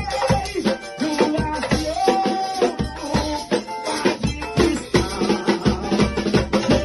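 Band playing upbeat Pentecostal worship-chorus music: a steady, fast drum beat with rattling hand percussion under a held melody line.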